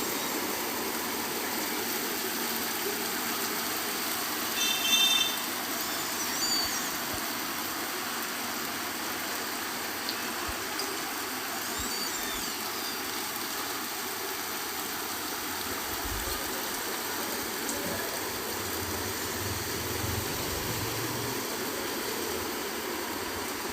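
Steady rain falling, an even hiss. A few short, high chirps come through about five seconds in and again around twelve seconds.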